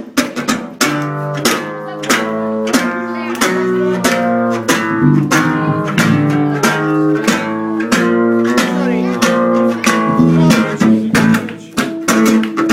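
Instrumental passage of a song: acoustic guitar strumming chords in a quick, even rhythm, with a melody line of held notes over it.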